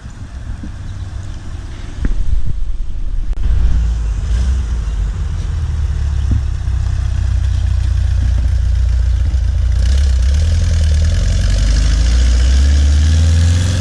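A car engine running with a deep, loud rumble that gets suddenly louder about two seconds in as it pulls close, then revs up with a rising pitch near the end.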